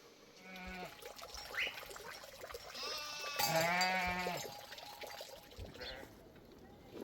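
A sheep or goat bleating twice: a short call near the start, then a longer, louder, quavering bleat about three seconds in.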